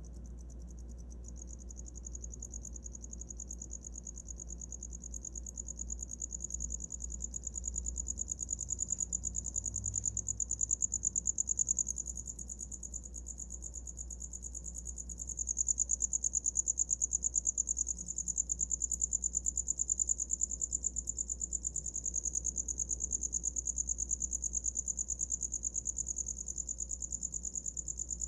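A cricket singing a continuous, high-pitched trill of very rapid pulses, growing louder about halfway through.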